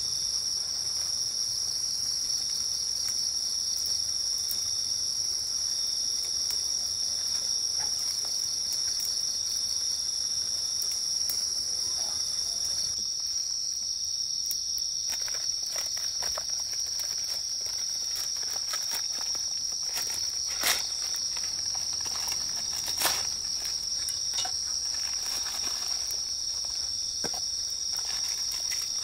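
Night insects singing in a steady, unbroken high-pitched chorus, with a few sharp clicks over it in the second half.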